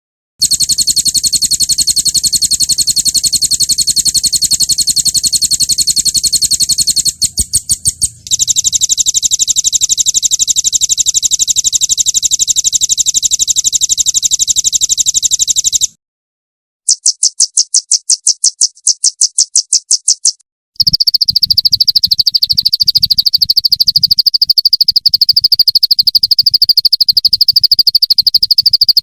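Recorded songbird trills of the 'roll tembak' kind, used as master audio to teach caged songbirds: high, very rapid trills in several takes spliced together. The takes cut off abruptly, with short gaps about sixteen and twenty seconds in, and the last take is a lower trill.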